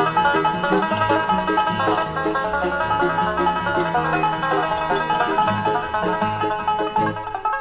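Instrumental bluegrass with a banjo playing lead over guitar and a steady bass line, and no singing.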